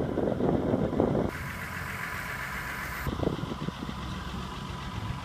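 Diesel engine of a John Deere 350 excavator idling steadily. Uneven low rumbling comes in the first second, and a hiss runs for about two seconds starting just over a second in.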